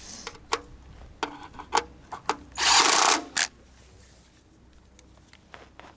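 Impact wrench (rattle gun) run in one short burst of under a second about halfway through, after several sharp clicks and knocks of tools being handled.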